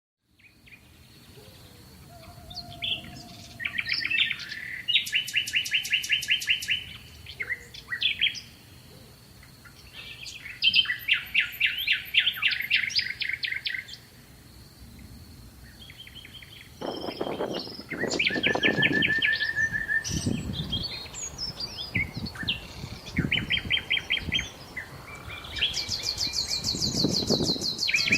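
Songbirds singing in the open: repeated bursts of fast, evenly spaced trills and varied twittering. From about two-thirds of the way in, low rustling noise runs beneath the song.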